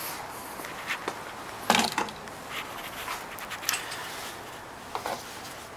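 Plastic oil funnel being pulled out of the engine's oil filler neck and handled: a few scattered knocks and clicks, the loudest about two seconds in.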